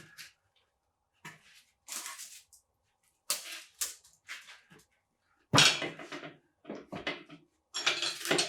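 Clatter of metal engine parts being handled and set down: a series of short knocks and rattles, the loudest a heavy knock about halfway through.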